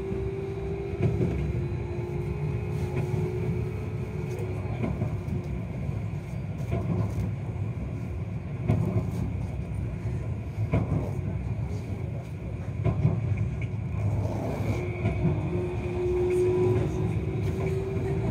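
Keio 5000-series train running, heard from inside the car: a steady low rumble of wheels on rail with irregular clacks, and a motor whine that sinks slightly over the first few seconds, fades, then comes back rising near the end.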